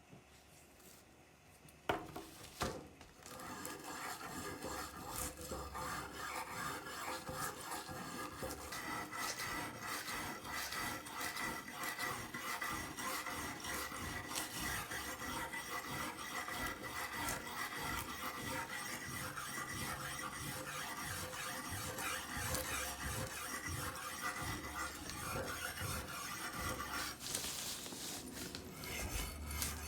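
Abrasive rubbing and scraping on the rusty machete blade, like filing or sanding the rust off, running steadily after a couple of knocks about two seconds in.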